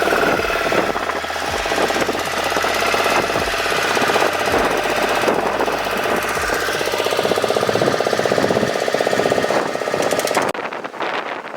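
A motorboat's engine running with a fast, hard clatter. Near the end it gives way suddenly to wind on the microphone.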